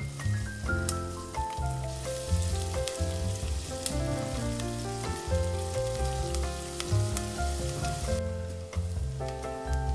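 Food sizzling and crackling in a frying pan, starting about two seconds in and cutting off shortly before the end, over background music.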